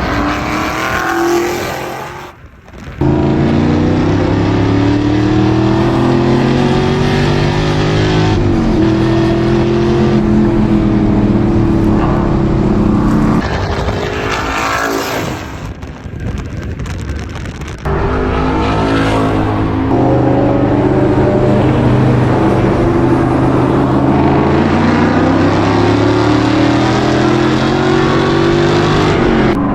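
Car engine and exhaust running under load, the engine note repeatedly climbing and dropping as the revs rise and fall. There is a brief drop-out a couple of seconds in and a quieter stretch past the middle, then it returns abruptly at full level.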